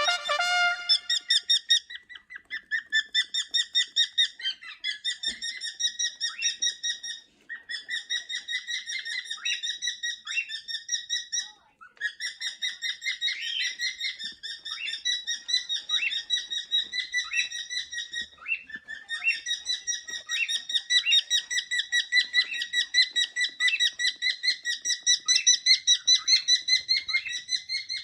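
Cockatiels chirping in a rapid, even string of short calls, several a second, with two brief breaks.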